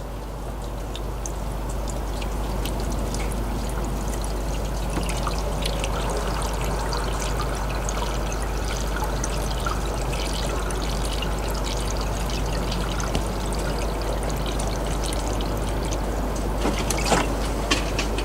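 Diesel fuel poured steadily from a jug into a Davco Fuel Pro 382 fuel filter housing, filling the new filter to prime the fuel system. A few sharp clicks come near the end.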